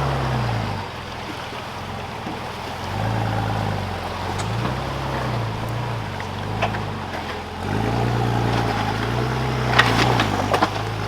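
Four-wheel-drive's engine revving up and falling back in several surges as it crosses a river, over a steady rushing background. A few sharp knocks near the end.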